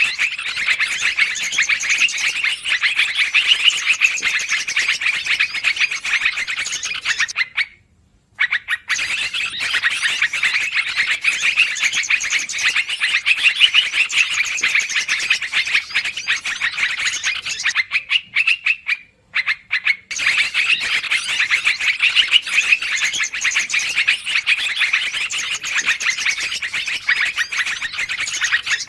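Yellow-vented bulbul (trucukan) lure calls: dense, rapid, noisy chattering that keeps going, broken by two short pauses, about 8 and 19 seconds in.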